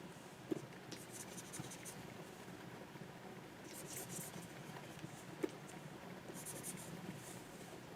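Stylus strokes on a Wacom 24 Pro pen display: three short runs of quick scratchy pen strokes, with two sharp taps, one about half a second in and one about five and a half seconds in.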